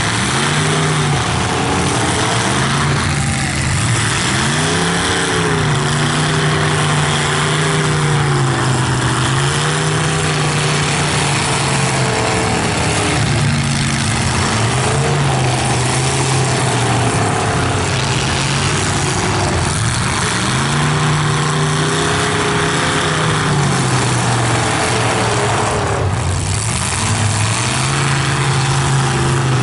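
Full-size stock demolition derby cars' engines revving up and falling back over and over, several at once, loud throughout.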